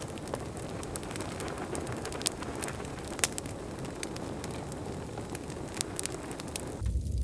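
Wood bonfire crackling: a steady hiss with frequent sharp pops and snaps. Just before the end it gives way to a low rumble.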